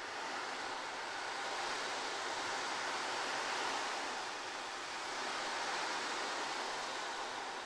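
A soft, steady rushing noise with no distinct tones, swelling and easing gently like surf.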